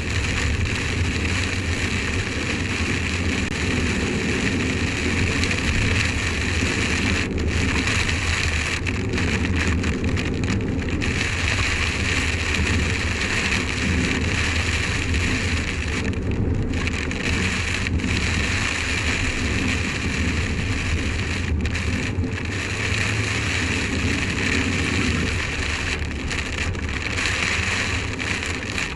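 Rain hitting a car windscreen, heard through an in-car dash camera as a steady static-like hiss over the low drone of the moving car, sped up to twice normal speed.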